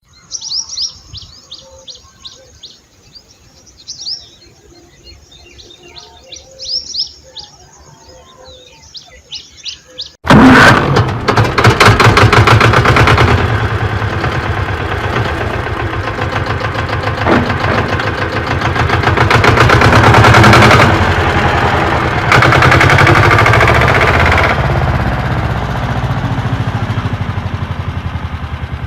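Birds chirping in quick repeated calls for about ten seconds. Then a loud, rapid mechanical rattle like a running engine starts abruptly and continues steadily, with slow swells in loudness.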